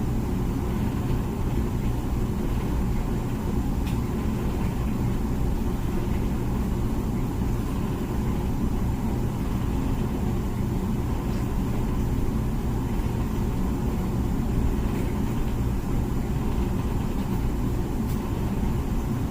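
Comfee dishwasher running mid-cycle: a steady low hum of its wash pump with water circulating inside, even and unchanging throughout.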